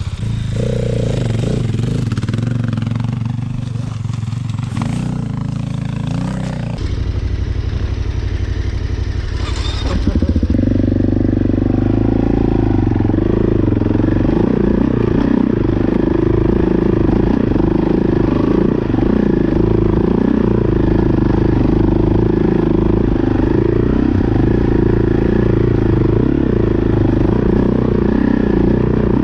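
Motorcycle engine running, its note changing a few times and then growing louder about ten seconds in and holding steady.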